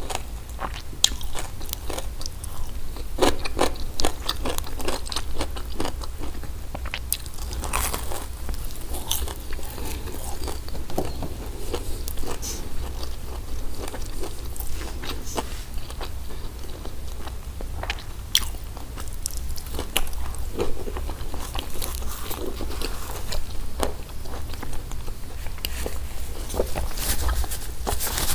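Chewing and biting of crispy hawawshi, bread baked with a spiced minced-meat filling, with irregular crunches and crackles from the crisp crust.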